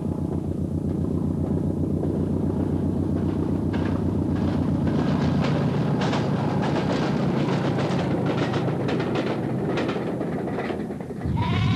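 A diesel-electric multiple unit crossing a railway bridge: a steady low engine throb with wheels clicking over the rail joints, fading as the train passes. A sheep bleats near the end.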